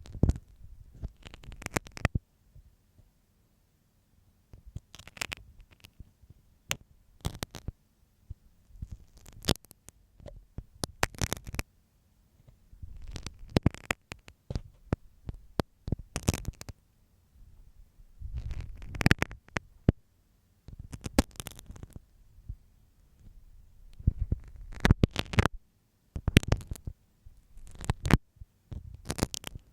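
Marking pin (machi-bari) scraping and tapping in an ear-cleaning ASMR microphone's ear: close scratching and crackling with dull rumbles, in irregular bursts with short pauses.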